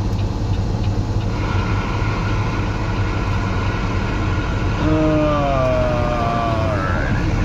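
Semi-truck engine droning steadily, heard from inside the cab, with a hiss building after about a second. In the last few seconds a whine glides downward in pitch.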